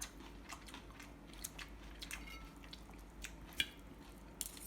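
Someone eating: quiet chewing, with scattered small clicks of utensils and dishes and one sharper click about three and a half seconds in.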